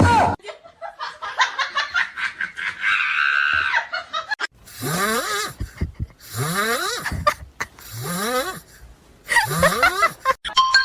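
Repeated breathy vocal calls, each rising in pitch and lasting just under a second, about one every second and a half in the latter half, after a run of quicker rapid sounds in the first few seconds.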